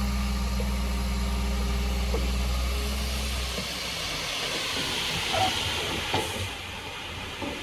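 Heavy diesel engine of earthmoving machinery running steadily, cutting off abruptly about three and a half seconds in, followed by a hiss with a few light knocks.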